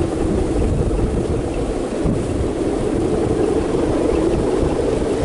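Strong wind buffeting the microphone, a loud steady rush with gusty low rumble.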